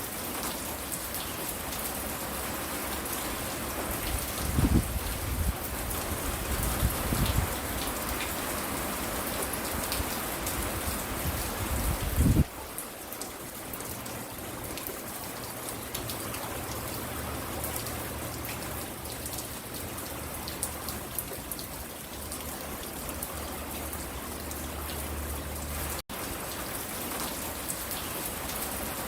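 Steady rain falling, an even hiss of drops, with a few short low thuds about 5, 7 and 12 seconds in and a brief drop-out near the end.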